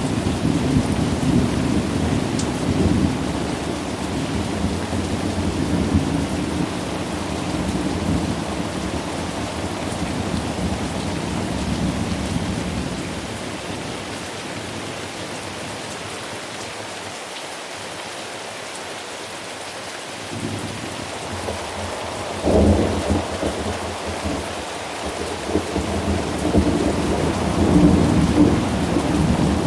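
Steady rain with rolling thunder. The rumble dies away around the middle, leaving only the rain, then a sudden thunderclap comes about two-thirds of the way through and the rumbling builds again toward the end.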